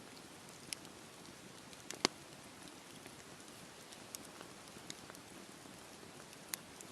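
Wood campfire burning: a low steady hiss of flames with sharp crackles and pops scattered through it, the loudest about two seconds in.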